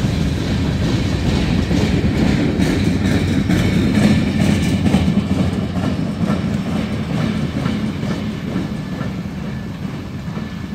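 Freight train covered hopper cars rolling past, a steady rumble with their wheels clicking over the rail joints. After the last car goes by about six seconds in, the sound fades steadily as the train moves away.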